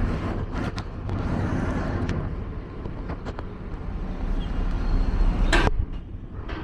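Outdoor urban background of vehicle traffic, a steady low rumble with a few light clicks and one sharp, loud noise burst about five and a half seconds in.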